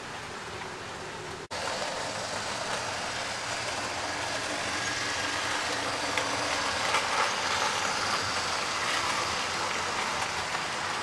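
OO-gauge model diesel locomotive and train running on the layout track: a steady whirring hiss of the motor and wheels, with a few light clicks. The sound cuts out briefly about one and a half seconds in, then carries on a little louder.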